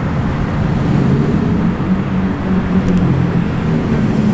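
A car's engine running steadily at low revs with a deep note as the car drives slowly out of the meet.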